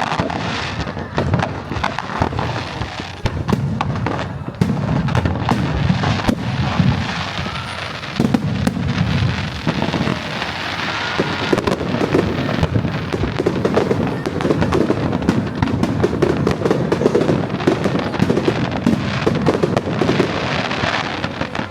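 Fireworks display going off continuously: a dense stream of rapid bangs and crackles over a low, rolling rumble of booming shells.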